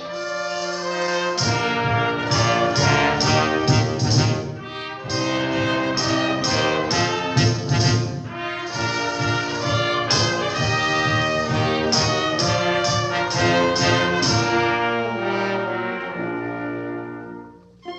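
Orchestral cartoon title music, with runs of short, punchy chords, dying away just before the end.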